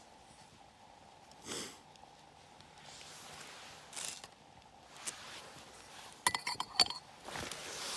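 Handling noises from camp gear: a couple of brief swishes, then a quick run of sharp clinks from small hard objects knocking together about six seconds in.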